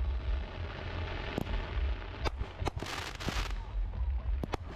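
Fireworks display: a series of sharp bangs from bursting shells, with a loud hissing, crackling burst about three seconds in.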